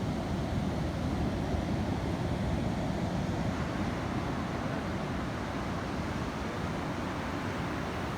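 Steady noise of wind and surf, even throughout, with no distinct calls.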